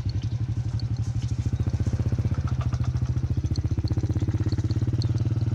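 A small engine running steadily, with a low, fast, even pulse.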